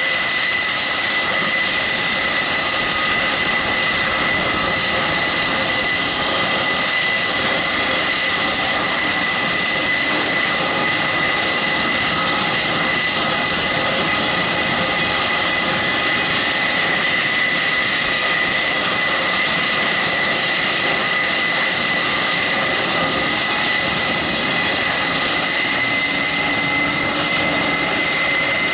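Airbus A400M's four-engine Europrop TP400 turboprops running steadily, a loud even rush of propeller and engine noise with a high steady whine.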